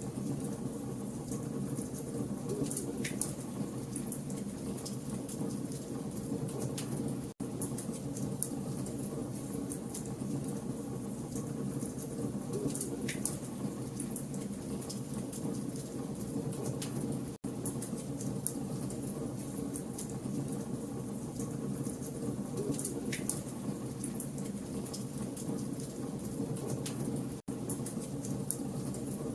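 Campfire of burning logs: a steady low rumble of flames with frequent sharp crackles and pops. The sound drops out for an instant about every ten seconds, where the recording loops.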